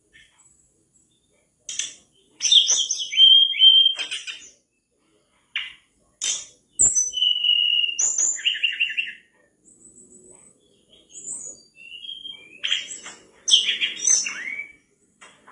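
Mangrove blue flycatcher singing energetically: rapid phrases of high, clear whistles and quick trills, broken by short pauses.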